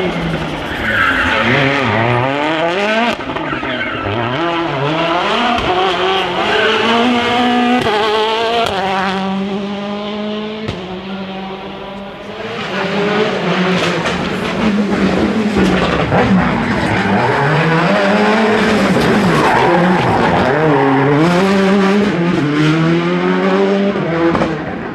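Rally cars driven flat out, engines revving up and dropping back again and again through gear changes, with sharp cracks and tyre noise on the stage.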